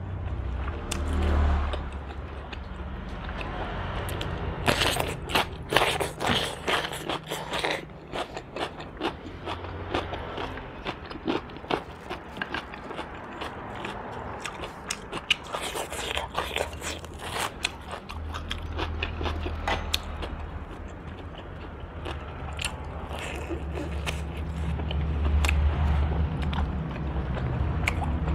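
Close-up eating of roast duck: bites and chewing with many crunchy, crackly clicks, densest about five to eight seconds in and again near the end. A steady low hum sits underneath and gets louder toward the end.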